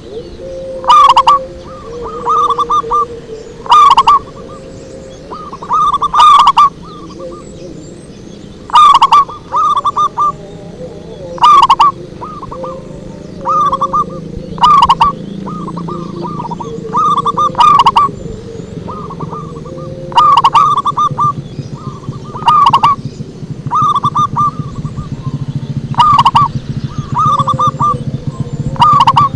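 Zebra dove (perkutut) cooing: short phrases of quick coo notes repeated about every one to two seconds, loud and clipped so that the loudest notes crackle.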